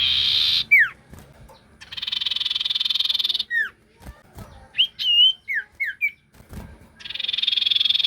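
Sirtu bird singing a fast, lively song: rapid buzzy trills of about a second and a half, three times, alternating with short whistled notes that slide downward.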